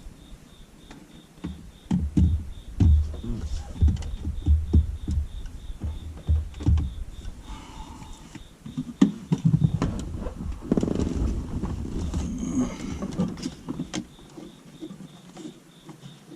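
Handling noise from pushing dash cam wiring in behind plastic car interior trim: a run of knocks, thumps and clicks, then a longer stretch of scraping and rustling about ten seconds in.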